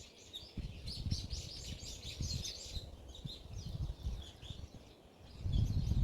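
Forest birds chirping and singing, a busy run of quick high chirps in the first few seconds that thins out afterwards. Gusts of wind rumble on the microphone throughout, loudest near the end.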